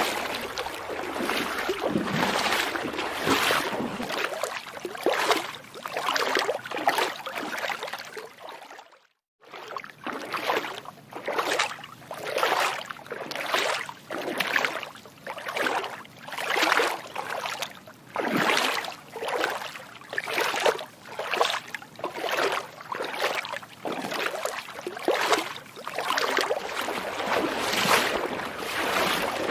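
Feet wading through shallow water, a splashing swish with each step about once a second, broken by a brief silent gap about nine seconds in.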